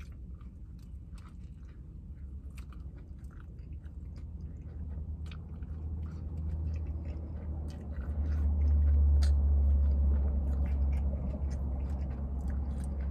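A person chewing a mouthful of vegan burger close to the microphone: a run of small wet mouth clicks and smacks. A low rumble swells about eight seconds in and eases off near the end.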